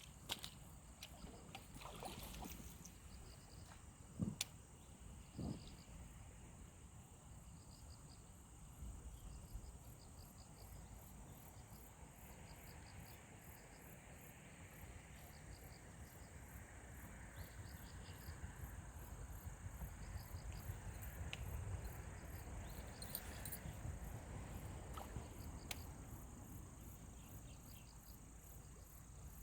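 Insects chirping, faintly: a steady high trill with short chirps repeating at an even pace, over a low outdoor rumble. Two soft knocks sound about four and five and a half seconds in.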